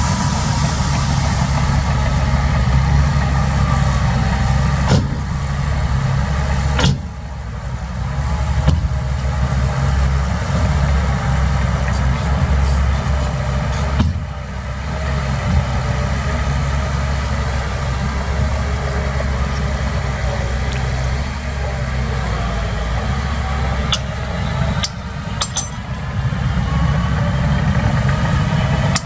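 Diesel engine of heavy earthmoving machinery running steadily, heaviest in the low range, with a few sharp clanks now and then.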